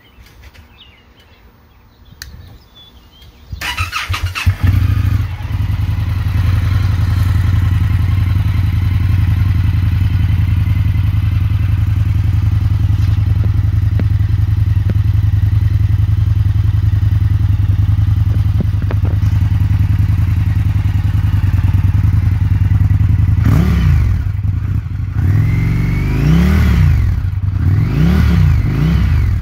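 Indian FTR 1200 V-twin motorcycle engine cranking and catching about four seconds in, then idling steadily. In the last six seconds it is revved in several short blips that rise and fall.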